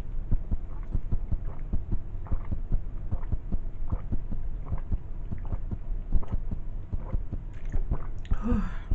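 Close-miked drinking from a water bottle: a run of soft, irregular gulps and swallows over a steady electrical hum, with a short voiced exhale near the end.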